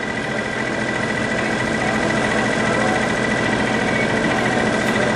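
A steady mechanical drone, like an engine running, with a constant high whine over a low hum. It grows slightly louder over the first couple of seconds.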